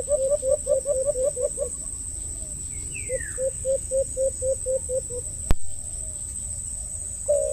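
A bird calling in rapid runs of short hooting notes, about six a second, in two bursts, with a brief falling whistle between them. A single sharp click comes near the end, over a steady high thin whine.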